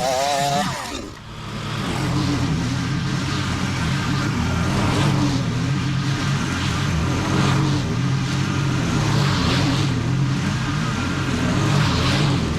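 Small petrol engine of lawn-care equipment running steadily under load. A higher wavering tone cuts out about a second in, and the steady engine hum carries on.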